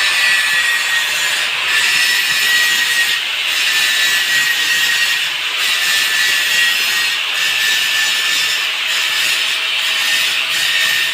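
A metal-cutting machine running steadily with a continuous rasping noise and a faint high whistle, easing slightly about every two seconds as the cut goes on.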